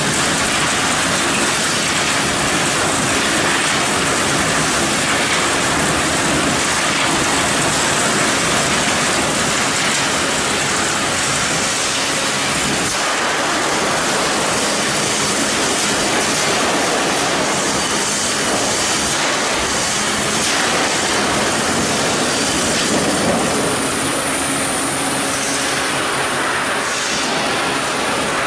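Loud, steady mechanical noise with a few faint humming tones, typical of industrial machinery running.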